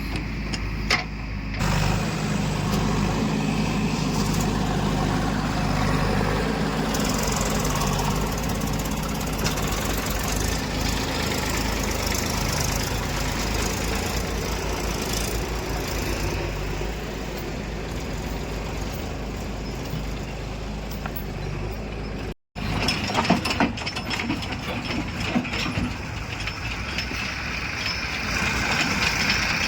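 Diesel engines of a backhoe loader and tractors running steadily at work. The sound cuts out abruptly about three-quarters of the way through and resumes with a noisier engine sound.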